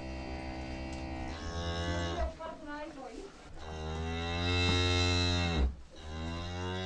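Cattle mooing: a series of long, low moos, with a shorter wavering call between the first two.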